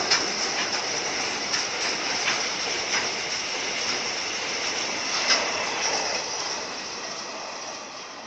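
Container freight train rolling past close by, a steady rushing hiss of wheels on rail broken by irregular sharp clacks as the wagons cross rail joints; it fades near the end as the train pulls away.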